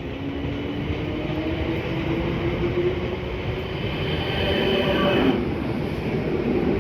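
Electric passenger train moving through the station: steady rumble of the train with a faint motor whine in held tones, the higher whine cutting off about five seconds in.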